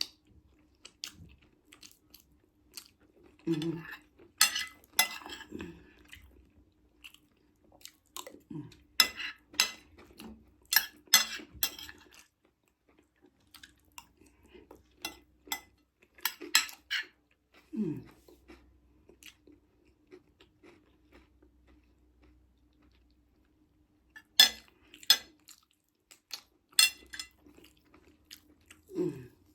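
Close-miked chewing and crunching of food: clusters of crisp, wet mouth clicks a few seconds long with pauses between.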